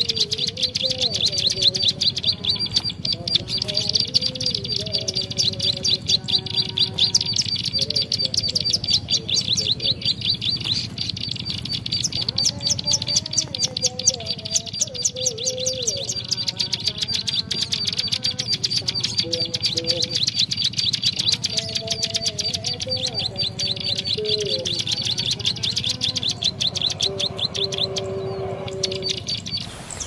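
Small songbird calling in a rapid, unbroken chatter of sharp high chirps, many a second, with lower warbling notes underneath at times.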